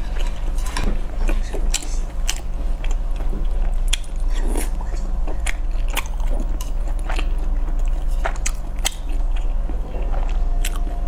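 Close-miked chewing of soft boiled dumplings in chili oil: sharp mouth clicks and smacks at irregular intervals, over a steady low hum.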